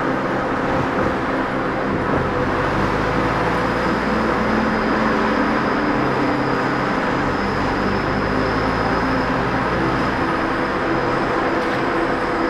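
Enoshima Electric Railway train running slowly along a street section: steady rumble of the wheels and running gear with humming motor tones that shift in pitch a few times.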